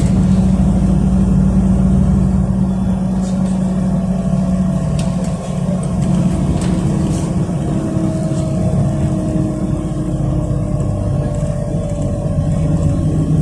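City bus engine and drivetrain running while driving, heard from inside the passenger cabin. A steady low drone gives way about halfway through to a whine that slowly falls in pitch as the bus slows.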